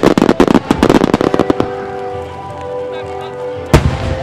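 Starmine fireworks barrage: a rapid string of cracking bursts over the first second and a half, then music with one loud boom near the end.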